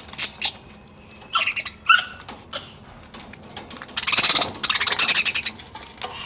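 Budgerigars calling: a few short, high chirps, then about two seconds of harsh, rapid rasping squawks as they squabble over food.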